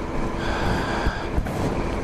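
Heavy wind rushing over the microphone, with the BMW G 650 GS Sertao's single-cylinder engine and a steady hum underneath at riding speed.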